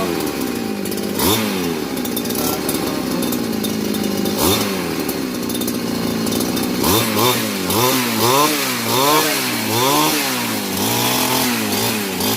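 Two-stroke grass cutter (brush cutter) engine running after a hard-start repair. It revs up and down a few times early on, then from about halfway the throttle is blipped rapidly and repeatedly.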